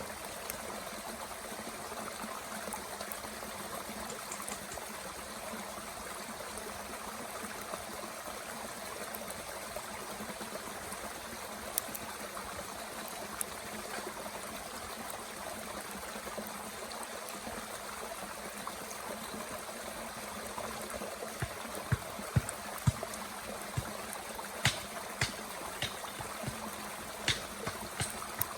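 A mountain stream flowing steadily, joined about three-quarters of the way in by sharp crackles and pops of wood burning in a small Bushbox twig stove.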